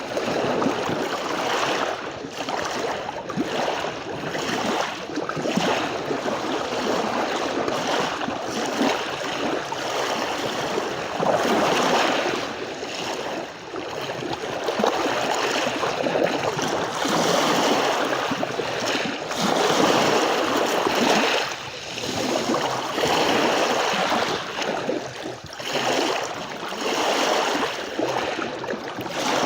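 Sea waves washing onto a beach, the surf swelling and easing every few seconds in a continuous hiss.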